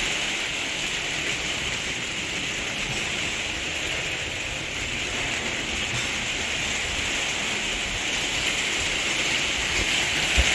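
Torrential rain pouring down as a steady, even hiss, with one brief low thump near the end.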